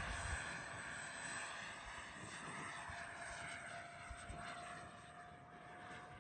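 Whine of the Freewing F-14 RC jet's 64mm electric ducted fans in flight, fading as the plane moves away, with a slow drift in pitch. Wind gusts rumble on the microphone.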